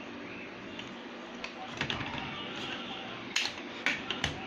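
Plastic Duplo bricks clicking and knocking as they are handled and snapped together: a few sharp clicks, the loudest coming in a quick cluster in the second half.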